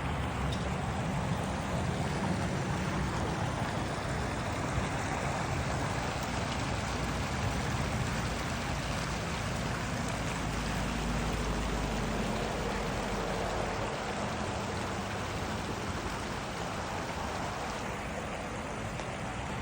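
Flowing water of a stream rushing steadily, with a deeper low rumble swelling for a few seconds in the middle.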